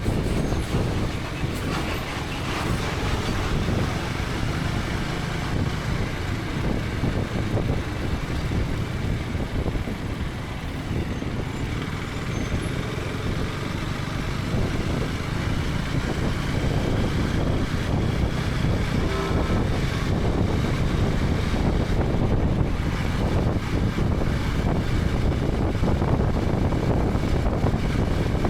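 KTM 250 Adventure's single-cylinder engine running on the move, mixed with steady wind and road noise on the helmet-mounted camera. The sound eases a little about a third of the way in and builds again.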